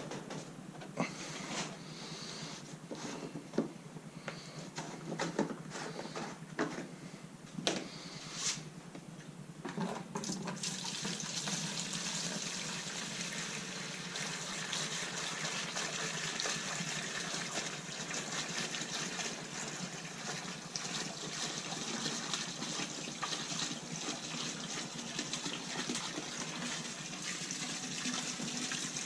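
Several sharp clicks and knocks, then from about ten seconds in a steady stream of liquid running.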